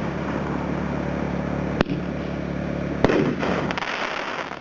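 A 500-gram firework cake firing, with sharp bangs about two and three seconds in over a continuous noisy rumble.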